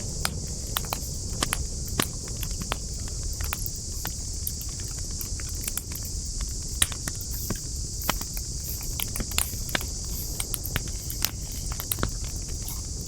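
Wood campfire crackling: irregular sharp pops and snaps, several a second, over a steady high hiss.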